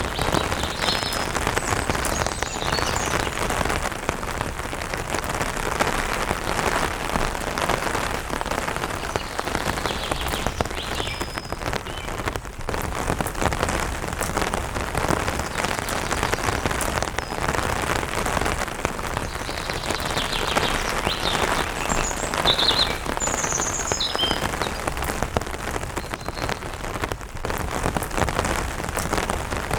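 Light rain falling on an umbrella canopy, a dense run of drops. Short high bird chirps come now and then, most of them in a cluster past the middle.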